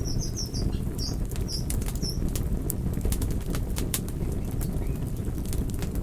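Campfire burning with a steady low rush and frequent irregular sharp crackles and pops of the burning wood. In the first two seconds a few short high chirps sound over it.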